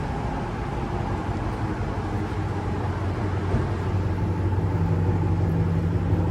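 Chrysler 300's straight-piped Hemi V8 idling with a steady low hum that grows louder in the second half.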